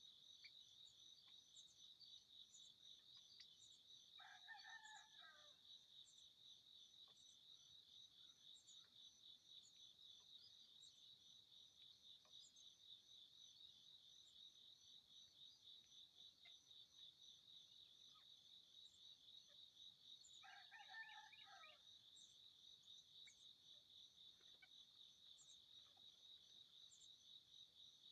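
Crickets keeping up a steady, rapidly pulsing high trill, faint. A rooster crows twice, about four seconds in and again about twenty seconds in.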